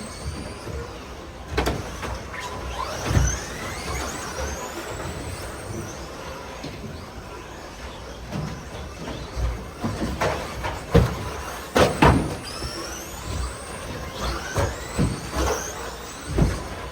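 RC stadium trucks racing: their motors whine and rise in pitch again and again as the trucks accelerate, with several sharp knocks from trucks landing or hitting, the loudest cluster about two-thirds of the way through.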